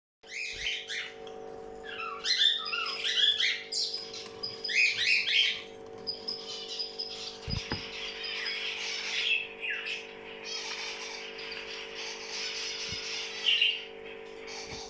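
Small birds chirping and twittering in quick clustered bursts, busiest in the first few seconds and again near the end, over a steady low hum.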